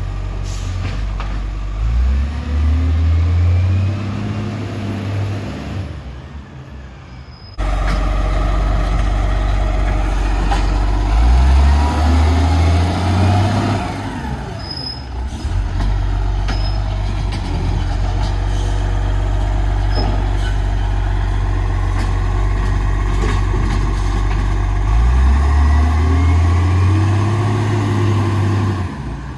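Garbage truck's diesel engine running, revving up and settling three times, with hisses from its air brakes.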